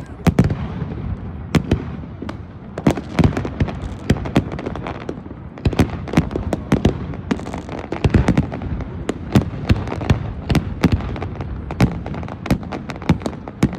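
Fireworks exploding continuously: many sharp bangs and crackles at irregular intervals, several a second at times, over a steady rumble of more distant fireworks.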